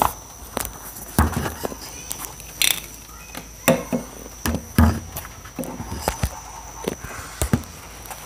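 Irregular knocks and taps with a few heavier thumps, about a second in and near the five-second mark, over a faint steady high-pitched whine.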